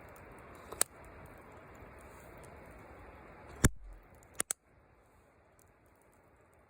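A few sharp clicks or knocks over a steady hiss: one about a second in, a louder one near the middle, and a quick pair just after, after which the hiss falls away.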